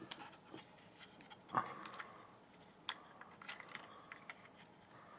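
Faint, scattered clicks and taps of small plastic parts being handled, a few seconds apart, the loudest about a second and a half in: the opened plastic case and circuit board of a small plug-in power supply being fitted back together.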